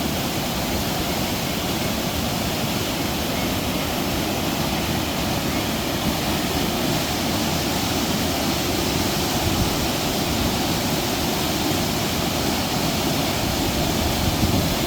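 Waterfall pouring into a plunge pool, a steady rushing of water.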